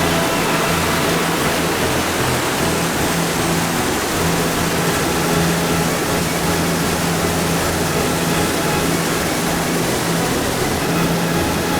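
Creek water rushing steadily over rocks, with a low hum underneath that fades in and out.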